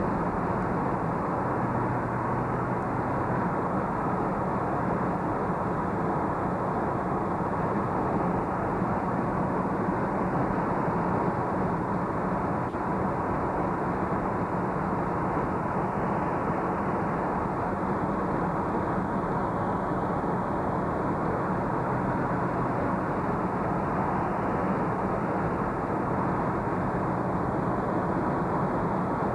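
Steady vehicle running noise: a constant hum and rumble of a moving vehicle, unchanging throughout.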